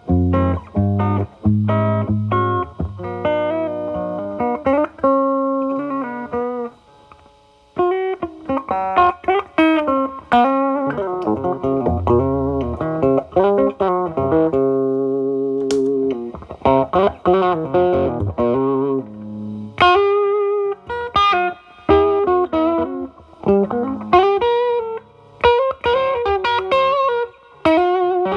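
Humbucker-equipped SG electric guitar playing single-note blues lines through the overdriven drive channel of a Marshall Valvestate amp. About halfway through, a single click is heard as the MXR Distortion+ pedal is stomped on, and the licks carry on with the pedal set to minimum distortion.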